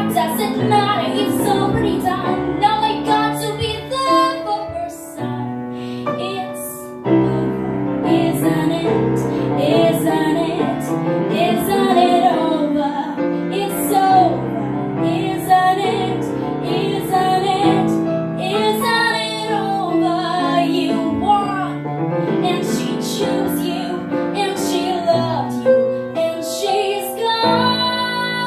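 A song: female singing over piano accompaniment.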